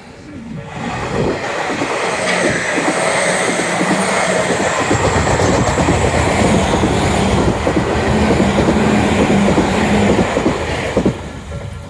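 Tobu Tojo Line electric train passing close by, its wheels clattering rapidly over the rail joints; the sound builds about a second in, holds, and falls away near the end.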